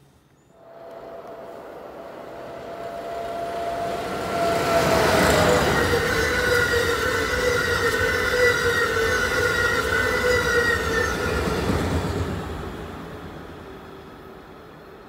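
Amtrak Acela Express high-speed electric trainset passing at speed. It builds from about half a second in and is loud for several seconds, then fades. A steady whine drops in pitch as the train goes by.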